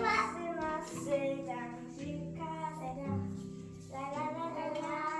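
A child singing a short improvised Christmas-tree decorating song, sung lines with held notes, over background music with steady sustained low notes.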